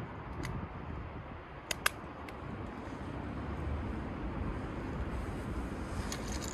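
Steady low rumble of a train, growing a little louder partway through, with one sharp click about two seconds in and a few faint ticks near the end.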